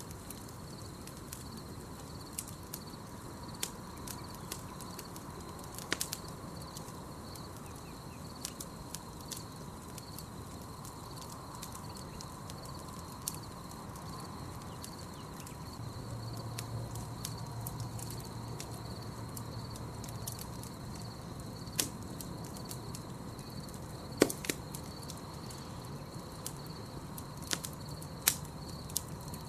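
Campfire crackling, with irregular sharp pops of burning wood, the loudest about three-quarters of the way through. Under it runs a steady, high, pulsing chirring of night insects.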